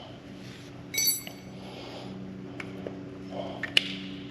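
Metal clinks and clicks from brake parts and hand tools being handled, with one ringing metallic clink about a second in and a sharp click near the end, over a steady low hum.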